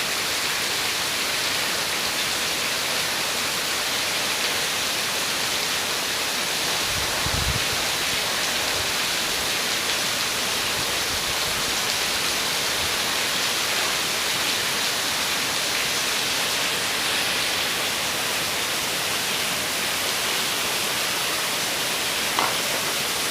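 Heavy rain falling in a steady, dense hiss. A brief low thump comes about seven seconds in.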